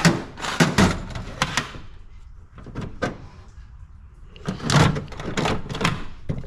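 A run of knocks and clunks, in a cluster during the first second and a half and another about four and a half seconds in, over a low steady hum.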